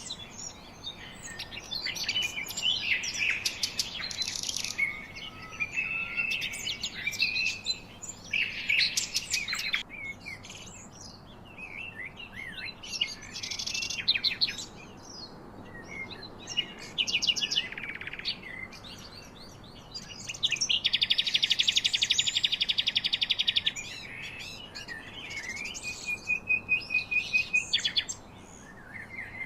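Several songbirds chirping and singing in overlapping calls, with a loud, rapid, even trill about two-thirds of the way through and a held whistled note near the end.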